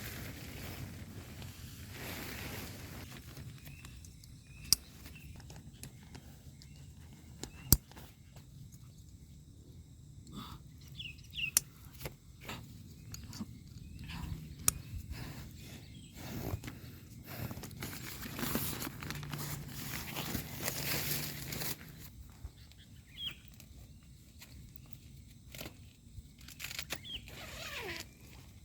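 Quiet outdoor ambience broken by scattered sharp clicks, knocks and rustling of someone handling things and moving about, with a few short, faint chirps.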